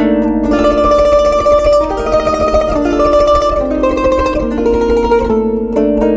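Kanun, the Turkish plucked zither, playing a melody: quick repeated plucked notes at the start and end, with a flowing run of higher notes in the middle.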